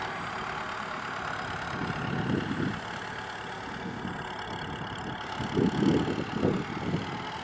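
Kubota M6040SU tractor's diesel engine running steadily, swelling louder twice, about two and six seconds in.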